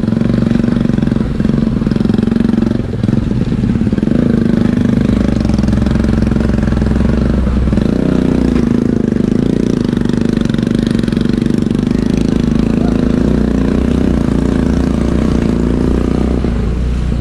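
Motor scooter engine running steadily while riding along, a continuous hum with low rumble from the road.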